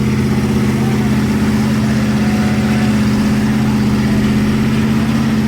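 Car engine idling loud and steady at an even pitch.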